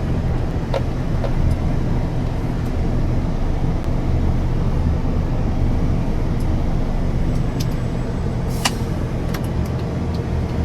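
Truck engine idling steadily, with a few light clicks over it, the sharpest about three-quarters of the way through.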